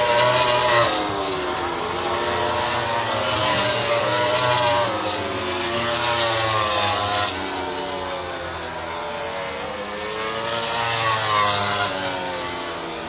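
MotoGP racing motorcycle engines on track, their revs climbing and dropping again and again, with more than one engine note heard at once.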